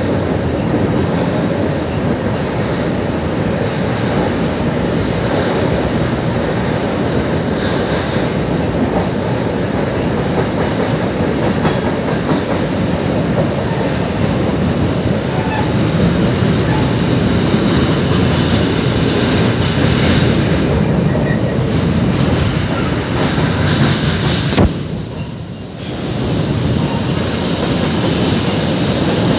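Freight cars of a long train, tank cars and covered hoppers, rolling steadily across a steel girder bridge overhead: a continuous, loud wheel-on-rail noise. About 25 s in there is a sharp click, and the noise drops for a second before it comes back.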